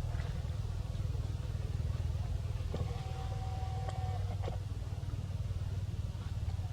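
A steady low hum, with a brief steady tone a little under three seconds in that lasts about a second and a half, and a few faint clicks.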